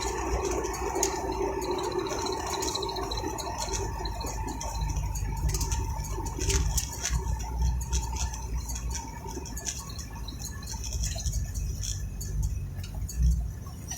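Inside a moving car: a low road rumble with many scattered clicks and rattles, and a faint steady hum that fades out in the first few seconds.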